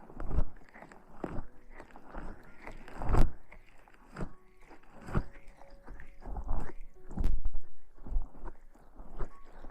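Close-miked ASMR rustling and scratching sounds, coming in uneven crackly spurts with sharp clicks.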